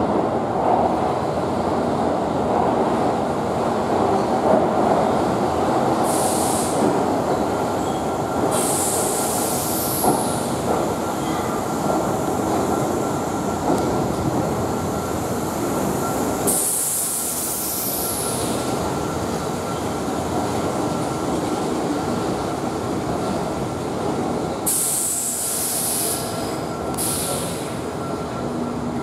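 Keihan 2600-series electric train rolling slowly into an underground station platform, with a steady running rumble of the cars. Shrill wheel squeal breaks out several times, some of it sliding down in pitch, and the rumble eases a little near the end as the train slows.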